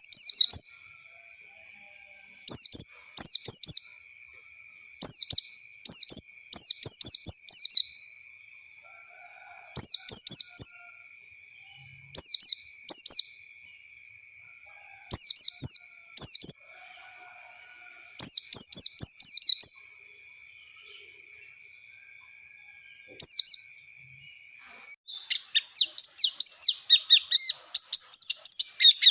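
White-eye (pleci) singing short bursts of rapid, high twittering chirps, with pauses of a second or two between phrases. About 25 seconds in it breaks into a fast, unbroken run of chirps. A faint steady high whine lies underneath until then.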